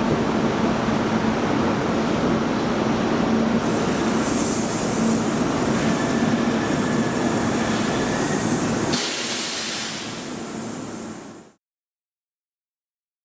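Train running on rails: a steady rumble with a low hum and brief hissing about four and nine seconds in. It fades out about eleven seconds in, followed by silence.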